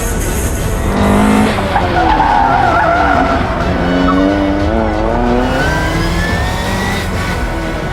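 A racing engine under hard driving on a tight course, its pitch rising and falling again and again as it brakes and accelerates through the turns, with tyres squealing.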